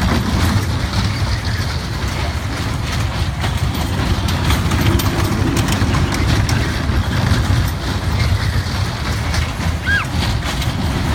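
Ride-on toy train running: a steady low rumble with light clattering clicks.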